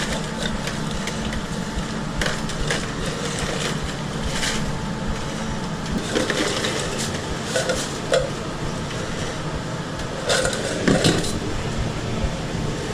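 Food truck kitchen work: scattered knocks and clatter of utensils and cookware over a steady mechanical hum, with the loudest clatter about ten seconds in.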